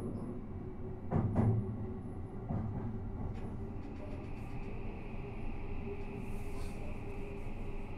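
Running sound inside a Toei 5500 series commuter train car under way: a steady rumble of wheels on rail, with two loud knocks about a second in, as of wheels crossing rail joints. A steadier, higher-pitched running noise joins about halfway through.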